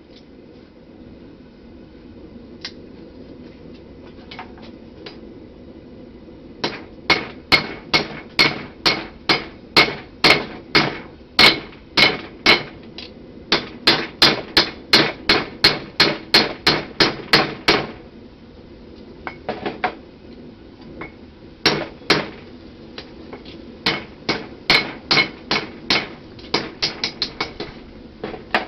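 Blacksmith's hammer striking hot steel on an anvil while forging the bevels of a knife blade: ringing blows in fast runs of about two a second, broken by short pauses and a few lighter taps. A steady low hum runs underneath.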